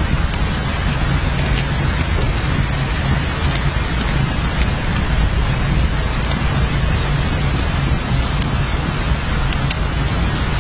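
Steady rain falling on a surface, with many individual drops ticking sharply over a continuous hiss, and a steady low rumble underneath.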